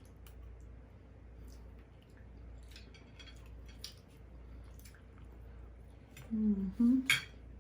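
Close-up mouth sounds of eating: soft wet chewing and lip-smacking clicks, with a short murmur of voice and a sharper smack near the end.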